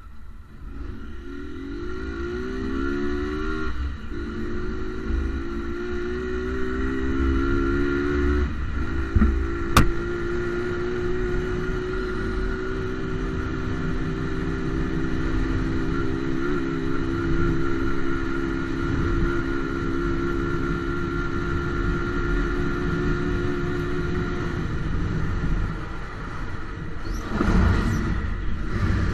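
Motorcycle engine pulling away, its pitch rising through the first gears with shifts at about 4 and 8 seconds, then holding a steady cruising note before easing off near the end. A low rumble runs underneath, and there is one sharp click about ten seconds in.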